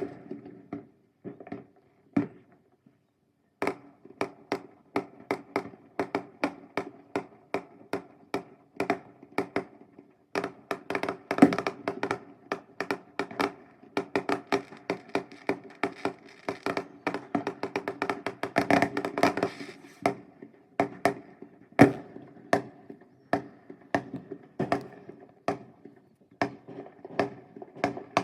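Fireworks going off in quick succession: a string of sharp bangs and cracks, about two a second, crowding into a dense crackling run in the middle before thinning out again.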